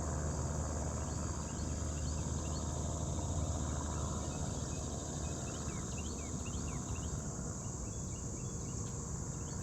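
Outdoor morning ambience: many small birds chirping in short rapid notes over a steady high insect drone, with a low steady rumble underneath.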